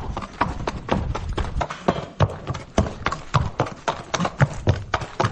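Horse hooves clip-clopping: many sharp, irregular hoofbeats, several a second.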